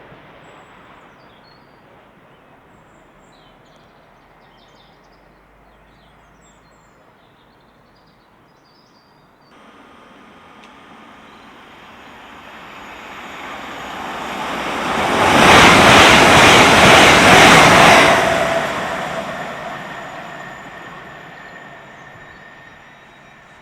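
A train passing through the station on the main line: faint at first, its rushing noise builds from about ten seconds in, is loudest for about three seconds as it goes by, then fades away. Before it, faint outdoor ambience with small bird chirps.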